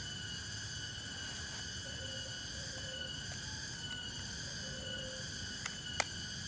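Night forest insect chorus: crickets or similar insects trilling steadily at several high pitches at once, with short low calls repeating about once a second. Two sharp clicks come near the end.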